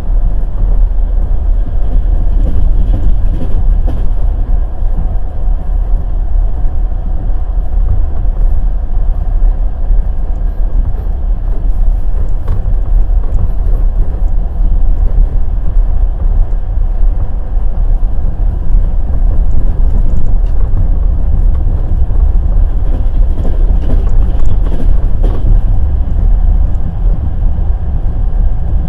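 Wheels of a passenger express train running on the rails, a loud, steady low rumble with faint scattered clicks over it.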